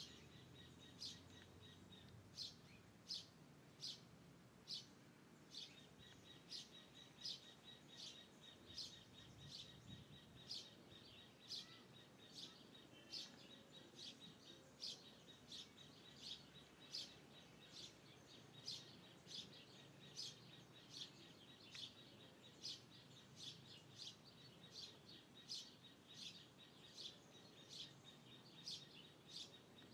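Faint bird chirping: short, high chirps repeated at an even pace, about one and a half a second, over quiet outdoor background noise.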